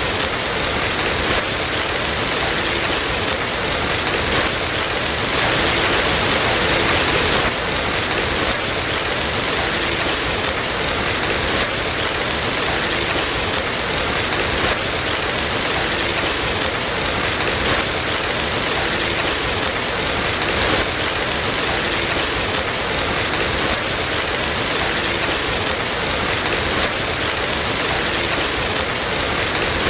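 Steady heavy rain falling, a dense even hiss that swells slightly for a couple of seconds about six seconds in.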